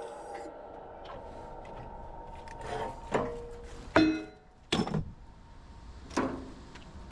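A run of sharp metal clanks and knocks, each followed by brief metallic ringing, from steel transformer parts being struck and handled. An earlier ring dies away during the first few seconds.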